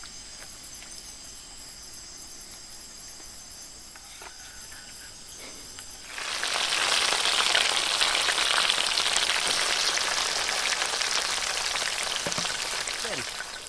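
Food sizzling in hot cooking oil in a pan over a campfire: a dense, steady hiss that starts suddenly about six seconds in and stops just before the end. Before that, only a fainter steady high-pitched buzzing.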